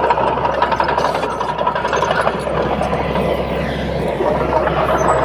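Komatsu D31P crawler bulldozer's diesel engine running steadily, a heavy, even engine sound with a faint high whine held over it.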